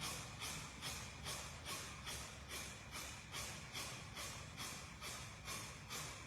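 Kapalabhati yoga breathing: short, forceful exhalations through the nose, driven by the belly, in a steady rhythm of about two and a half a second.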